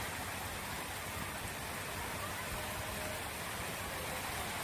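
Heavy rain falling steadily, an even hiss of drops on hard surfaces.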